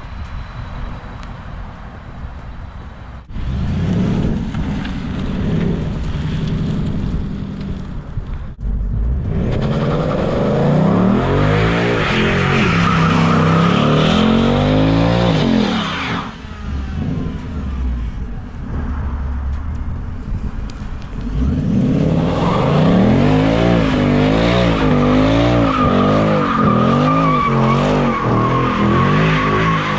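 2020 Ford Mustang GT's 5.0-litre V8 revving hard, its pitch repeatedly rising and falling, as the rear tyres spin in a burnout and donuts. The revs ease briefly about halfway through, then pick up again with a steady tyre squeal over the engine to the end.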